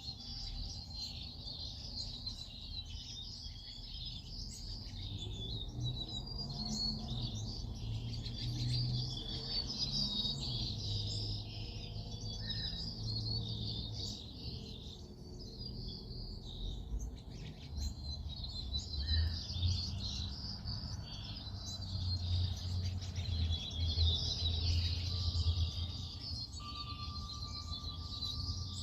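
A chorus of many small birds chirping and twittering continuously, over a low rumble. Near the end a single steady whistled note joins in.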